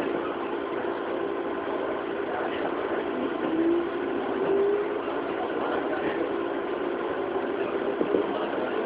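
Interior running sound of a JR 205 series electric train motor car (MT61 traction motors, field-added excitation control): a steady rumble with a hum from the drive, and a couple of short rising tones a few seconds in.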